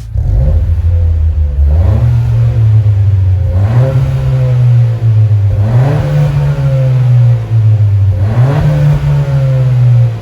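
A Honda Civic FL1's 1.5-litre turbocharged four-cylinder engine revving through a COLBASSO GT-FOUR stainless quad-tip aftermarket exhaust. The exhaust note climbs and settles back about four times.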